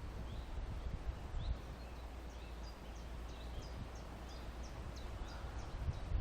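A small songbird calling, a run of about ten short, high chirps at roughly three a second in the middle, with a few scattered chirps before it, over a low outdoor rumble.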